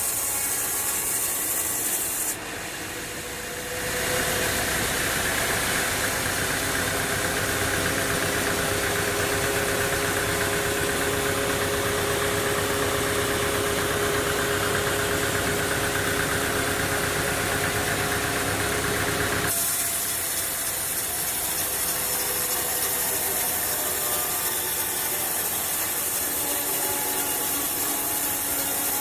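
Engine-driven machinery running steadily with a low hum and steady tones. The sound changes abruptly about two seconds in and again about two-thirds of the way through.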